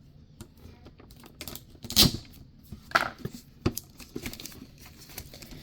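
Pokémon card booster pack being handled and opened: the foil wrapper crinkling and tearing, with scattered small clicks and rustles of cards, the loudest rustle about two seconds in.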